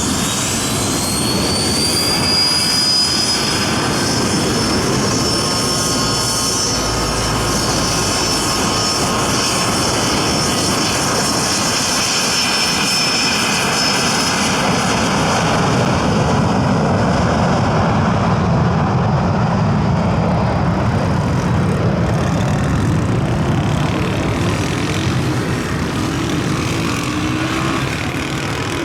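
Twin Garrett TFE731 turbofans of a Learjet 55 at takeoff power: a high whine rises in pitch over the first few seconds, then holds steady, under a dense jet rumble. After about 15 s the whine fades and a deep rumble takes over, easing slightly near the end.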